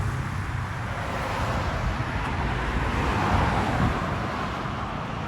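Road traffic noise: a passing car's tyre and engine noise swelling about three seconds in and fading away.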